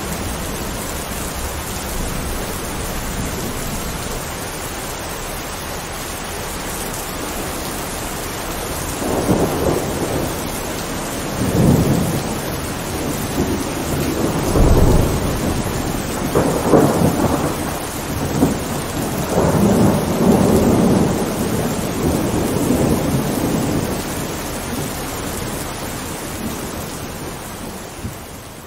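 Steady heavy rain, with thunder rumbling in several rolling swells from about a third of the way in, loudest in the middle. The rumbling dies back and the sound eases off near the end.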